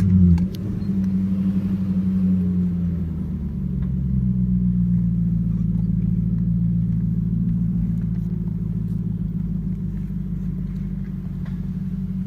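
A 2007 Infiniti M45S's V8 exhaust: the revs fall away about half a second in, then it settles into a steady low drone.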